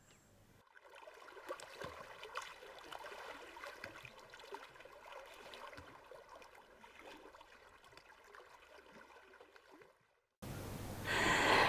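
Faint, uneven water trickling and lapping.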